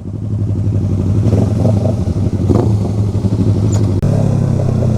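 Motorcycle engine running steadily while riding, with wind noise over the microphone. The engine note briefly drops and changes about four seconds in.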